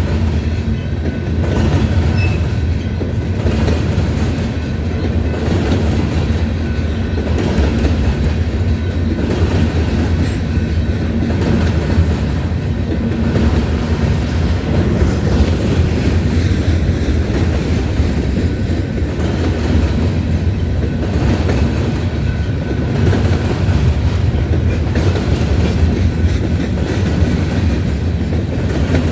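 Grain train's freight cars rolling past with a steady rumble, wheels clicking over the rail joints about every two seconds.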